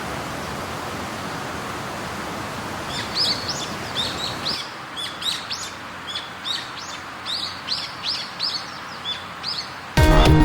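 A bird calling over and over with short, quick chirps, about one or two a second, over a steady outdoor rushing noise whose low rumble drops away about halfway through. Music cuts in right at the end.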